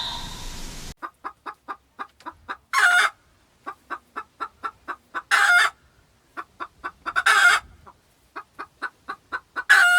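A domestic hen cackling: runs of quick short clucks, each building to a longer, louder squawk, four times over.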